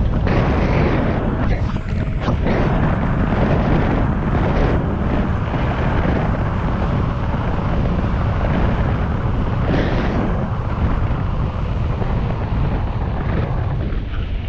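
Wind rushing over and buffeting the microphone of a camera carried on a bicycle coasting fast downhill: a loud, steady, deep rumble of wind noise.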